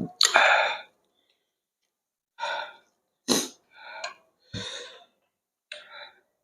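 Close-miked eating sounds: bites and chewing in about six short, separate crackly bursts with silent gaps between them.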